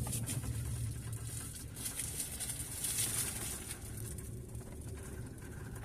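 Vehicle cabin noise while driving: a steady low rumble with scattered light rattles and ticks, slowly growing fainter.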